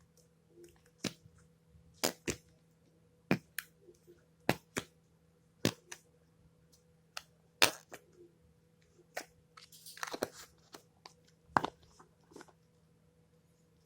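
Slime being worked by hand, giving sharp wet pops and clicks about once a second, with a short run of squishing about ten seconds in.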